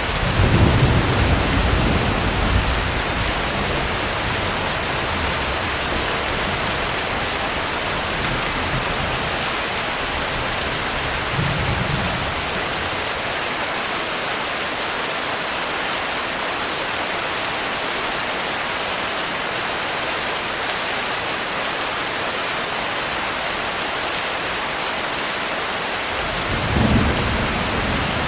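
Steady rain hiss with low rumbles of thunder. The longest rumble comes at the start, with a short one about twelve seconds in and another near the end.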